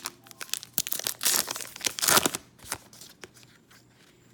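A trading card pack wrapper being torn open, crinkling and tearing for the first two and a half seconds, loudest about a second and two seconds in, then only a few faint clicks.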